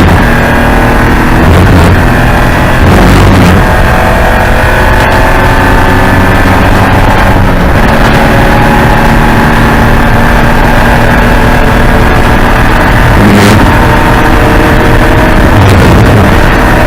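Porsche 944 Spec race car's 2.5-litre four-cylinder engine running hard and loud, its note breaking and shifting pitch briefly every few seconds.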